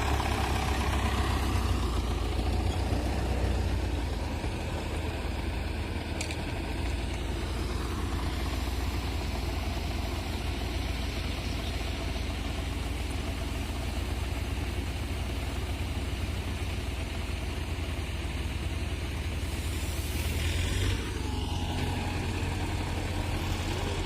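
Tractor engine running steadily at a low rumble, with a brief change in its note near the end.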